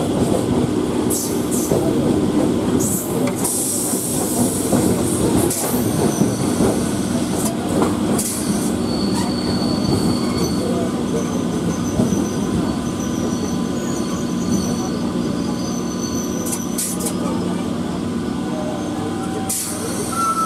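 Electric local train running on the rails, heard from its open doorway: a steady rumble and hum of wheels and motors, with occasional sharp clicks and thin, high-pitched wheel squeal coming and going through the middle.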